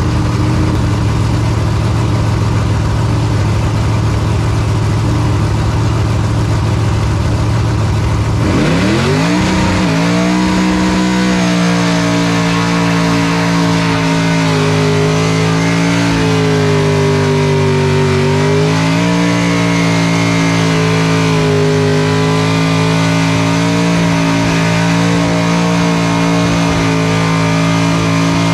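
Burnout car's engine running loud: a steady lower drone with rumble, then about eight seconds in the revs sweep up and are held high, wavering slightly as in a skid.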